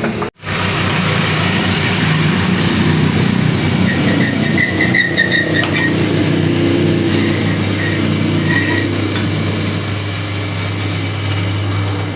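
Machinery running steadily with a low hum, and a thin squeal coming and going about four to six seconds in and briefly again near nine seconds.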